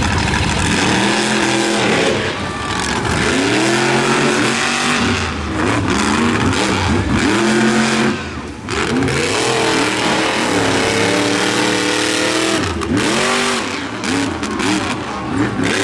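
Monster truck engines at full throttle in a side-by-side race, their pitch sweeping up and falling away again and again as the drivers rev and lift off.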